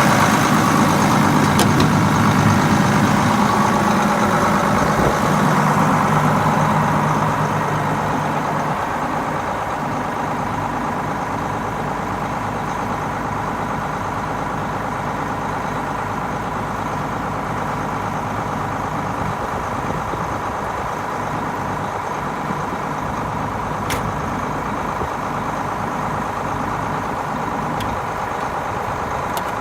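1990 Case IH 7140 tractor's turbocharged six-cylinder diesel running, louder for the first several seconds and then settling to a steady, even idle.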